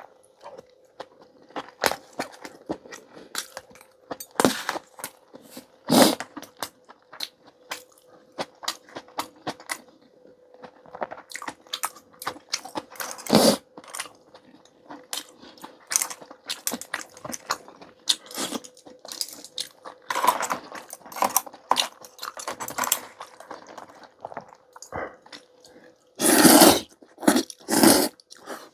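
Close-miked eating sounds of a person having clam noodle soup and rice: chewing, with many irregular sharp clicks and a few louder, longer bursts near the end.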